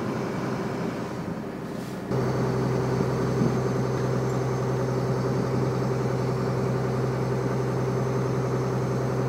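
Excavator engine running steadily. About two seconds in it steps up louder with a strong steady low hum.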